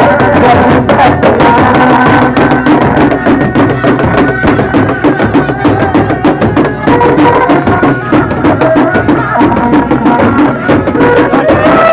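Loud live folk music from a traditional Indonesian street-procession ensemble: a fast, dense hand-drum rhythm with a held melody line over it.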